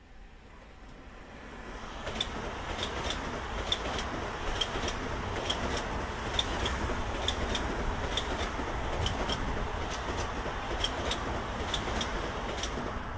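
Long Island Rail Road train passing at speed. A rushing rumble builds over the first two seconds and then holds steady, with sharp wheel clicks on the track coming in pairs about once a second.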